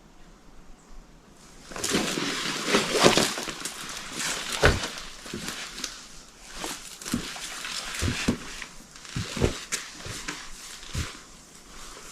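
Rustling and handling noises with scattered clicks and several soft thumps, starting about a second and a half in.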